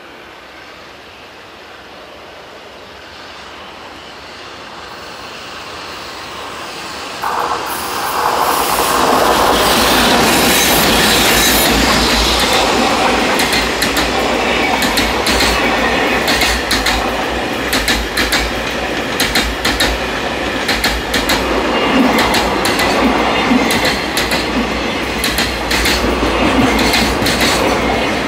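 Electric-locomotive-hauled container freight train approaching, growing louder over the first eight seconds or so, then its container wagons rolling past close by: a steady rumble with rapid clicking of wheels over the rail joints.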